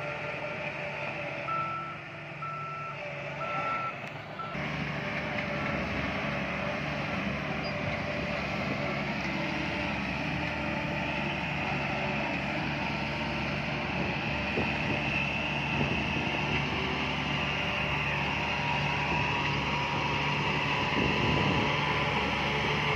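Diesel engine of heavy earthmoving machinery running steadily, with a reversing alarm beeping a few times at an even pace in the first seconds before it cuts off sharply; the engine continues slightly louder after that.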